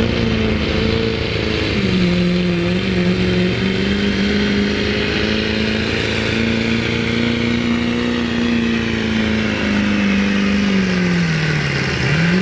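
Diesel pickup truck in a sled pull, its engine held at high revs under full load for about ten seconds, with a brief dip early on. The revs sag near the end and then pick up again, with a faint high whine above the engine note.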